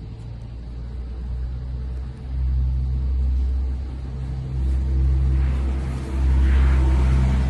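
Low jet-engine rumble from fighter-jet sound effects, swelling three times and loudest near the end.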